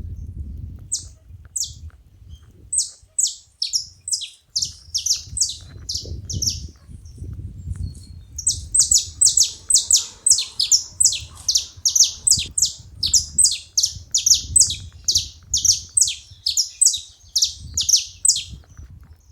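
Saffron finches calling: a long run of short, high, sharp notes that each drop in pitch, about two or three a second, with a pause of about two seconds a third of the way through. A low rumble runs underneath.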